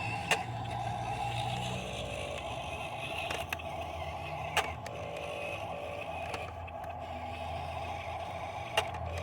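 Dump truck's diesel engine running steadily at low revs, with a few sharp knocks scattered through, the loudest near the end.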